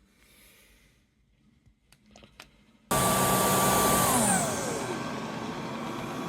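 A few faint clicks, then about three seconds in a Dreame H12 Pro wet-dry floor vacuum's motor switches on abruptly with a high whine. About a second and a half later its pitch glides down and it settles into a quieter, steady run.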